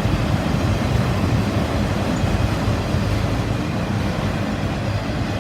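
Steady rolling noise of a long CSX loaded freight train's cars going by on the rails.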